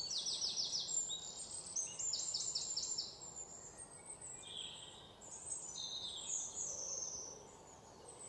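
Birds singing: quick runs of high, sharp chirp notes, several overlapping in the first three seconds and thinning out after that, over a faint steady outdoor hiss.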